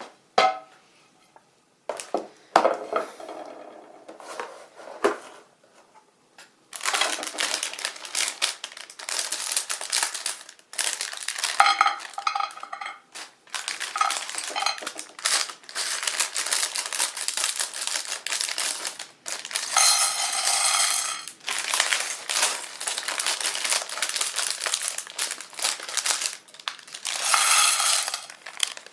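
Small hard plastic building bricks clattering and rattling as they are handled and sorted, with plastic crinkling. A few separate clicks come at first, and from about seven seconds in it turns into steady rummaging.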